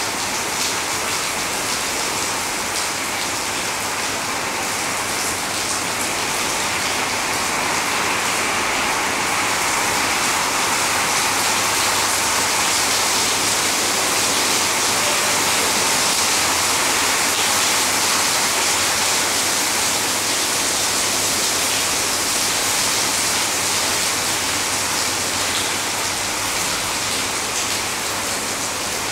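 Heavy rain falling on a paved road covered in standing water: a steady hiss of drops splashing into the puddled surface, swelling a little in the middle.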